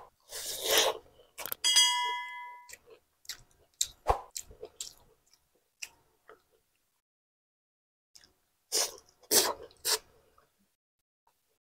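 Close-miked chewing and mouth smacking from eating a fried pork meatball by hand, in irregular bursts. A short ringing clink comes about two seconds in.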